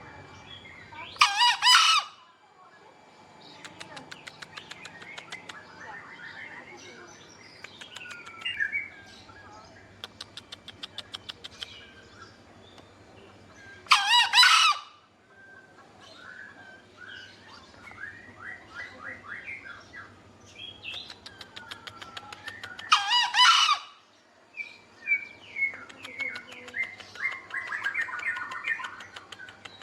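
Green junglefowl crowing three times, each a short, loud call, one near the start, one about halfway and one about three-quarters through. Between the crows, smaller birds chirp and trill.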